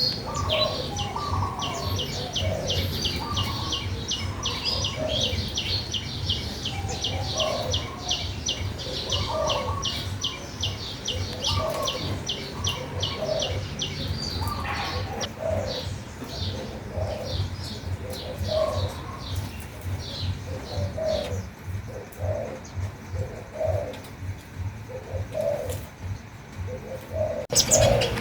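Doves cooing in short repeated phrases, with a songbird's fast run of high chirps, about five a second, that thins out about halfway through, over a steady low hum.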